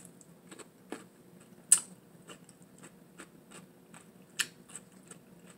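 Close-up chewing of a crunchy sour pickle topped with whipped cream: irregular wet crunches and mouth clicks, the loudest about two seconds in and another near the end.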